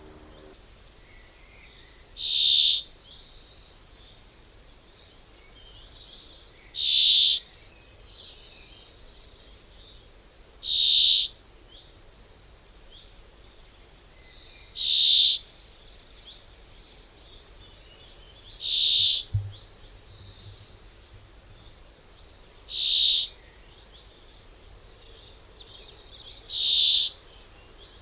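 A bird giving a short, high call about every four seconds, seven times in all, with fainter chirping from other birds in between.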